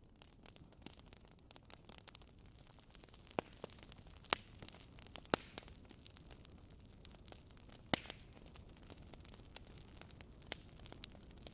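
Fire in a fireplace crackling: irregular sharp pops and snaps, a few of them louder, over a soft steady hiss.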